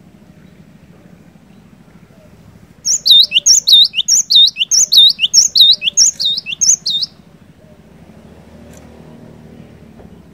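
Cinereous tit (glatik batu) singing a fast series of repeated high notes, about two a second for some four seconds, starting about three seconds in.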